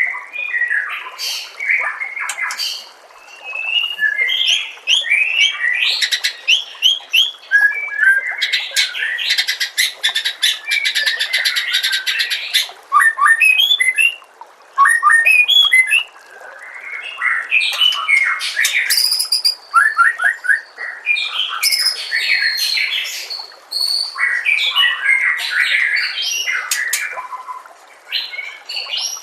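White-rumped shama (murai batu) singing a long, varied song of whistled and chattering phrases, with a fast rattling trill from about eight to twelve seconds in.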